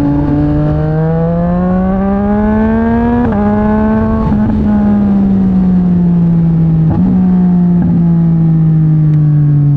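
Yamaha MT-09's three-cylinder engine through a Mivv X-M50 aftermarket exhaust, accelerating with rising pitch for about three seconds, shifting up twice in quick succession, then pitch slowly falling as the throttle eases off.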